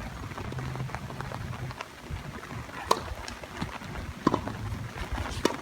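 Tennis ball being struck during a rally: sharp knocks three times, a little over a second apart.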